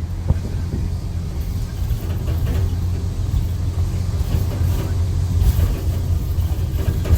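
Straight-piped Cummins C8.3 inline-six diesel of a school bus running under way, a steady, deep, throaty exhaust rumble.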